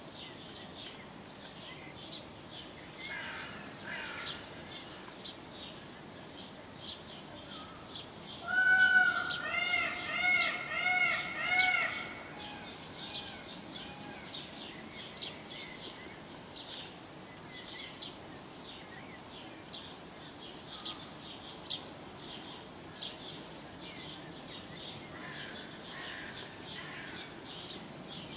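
Small birds chirping and twittering throughout. About nine seconds in comes a louder run of five short arched calls in quick succession, each one a clear pitched note.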